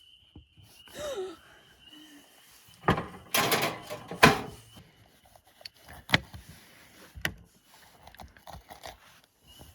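Handling noises: scattered knocks and clunks, with a louder stretch of rustling and scraping from about three seconds in, ending in a sharp knock.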